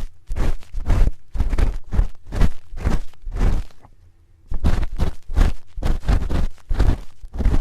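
An ear-cleaning spoon scraping and rubbing in quick, even strokes, about three a second, with a short pause about four seconds in.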